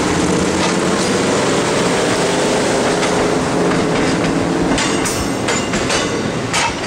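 MARC stainless-steel passenger cars rolling slowly past at close range, their steel wheels running on the rails with a wavering squeal. From about five seconds in the trucks clack over rail joints in a quick series of sharp knocks, and the sound eases as the last car goes by.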